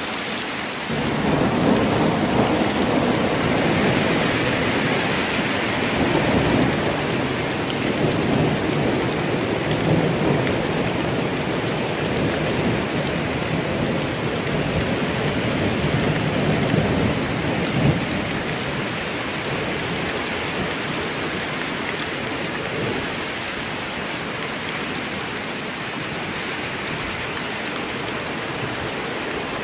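Steady heavy rain in a forest with a long rolling rumble of thunder that swells about a second in and slowly fades out over the next fifteen seconds or so.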